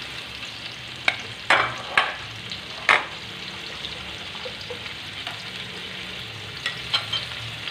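Onion, garlic, ginger and pork bones sizzling in oil in a metal wok, with a metal spatula clanking and scraping against the pan. The strikes come in a cluster about one to three seconds in and a few lighter ones near the end.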